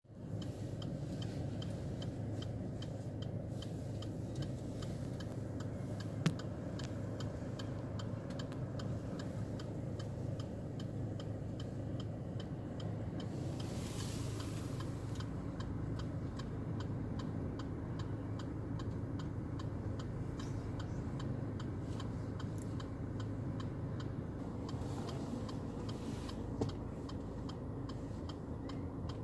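Steady wind rumble with many small irregular ticks of raindrops striking close to the microphone, and a short hiss about fourteen seconds in.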